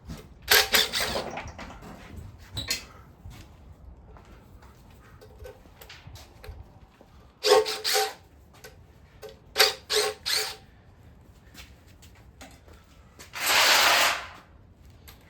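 Wrenches and loose engine hardware clanking against metal during an engine teardown. There are scattered sharp metallic knocks, several in quick succession about halfway through, and a harsher rasp lasting about a second near the end.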